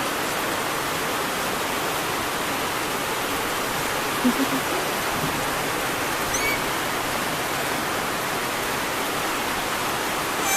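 Steady hiss of falling water, like rain or a shower, with a faint high chirp about six and a half seconds in.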